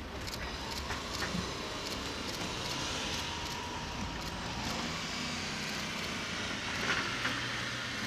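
Diesel train running at a station: a steady engine hum with wheel and rolling noise.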